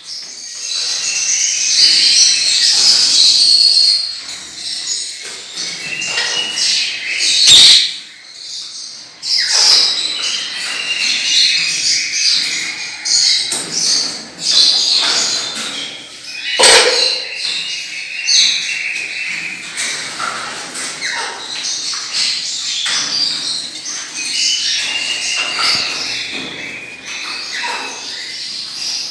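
A flock of lovebirds and parrots chirping and squawking continuously in shrill, overlapping chatter, with a couple of sharp knocks, one a third of the way in and one just past halfway.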